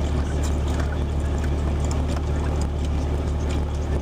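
Jeep's engine idling, a steady low hum heard from inside the cab, with quiet gulps as a man chugs water from a plastic jug.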